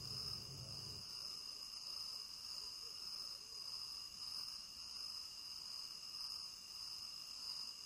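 Faint, steady chorus of crickets, a night-time outdoor ambience effect.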